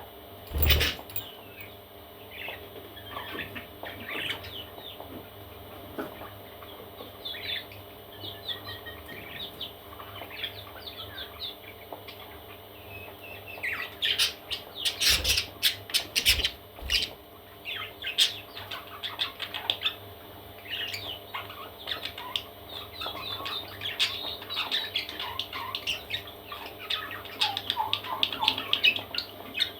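Parrot chicks chirping and squawking in many short, high calls, busier in the second half, with sharp knocks about a second in and a cluster of them around the middle.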